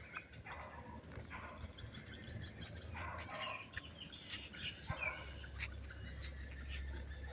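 Faint bird chirps: many short, scattered high calls over a low steady hum.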